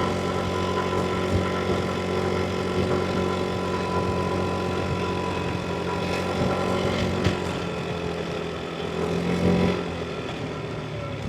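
Yamaha NMAX V3 scooter's single-cylinder engine running steadily while riding, with road noise underneath; the engine eases off and gets a little quieter near the end.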